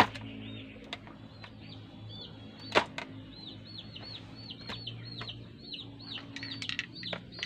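Birds chirping: rapid, repeated high arched chirps, several a second, over a faint steady low hum. A single sharp click cuts through about three seconds in.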